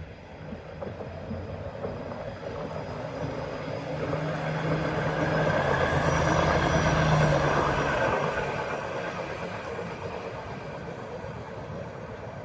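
Hi-rail truck passing by on the rails: its engine and steel guide wheels on the track grow louder, peak about halfway through, then fade away.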